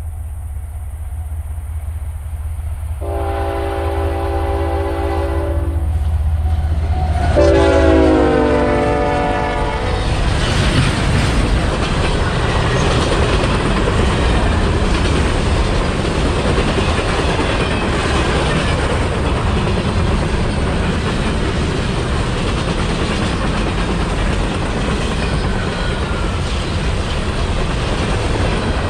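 Diesel train locomotive approaching with its engine running and sounding its horn twice, the second blast falling in pitch as it passes. The train's cars then roll past with a continuous rumble and wheel clatter.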